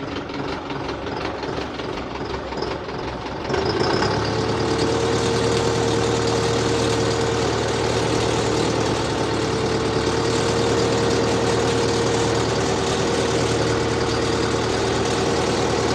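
Tractor diesel engine running steadily; about three and a half seconds in it gets louder, with a steady whine added, and holds there.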